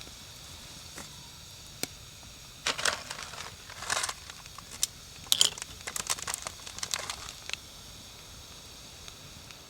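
Wood fire crackling: single sharp snaps, then a few seconds of busier crackling and popping in the middle.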